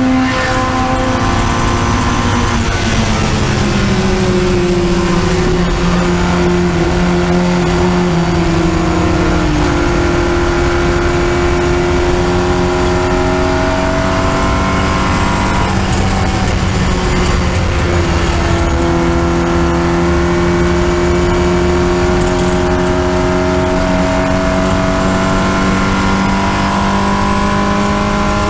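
Triumph Spitfire race car's four-cylinder engine, heard on board at racing speed with wind rush. The engine note drops a few seconds in as the driver lifts off, sags lower through a corner, then climbs steadily under acceleration near the end.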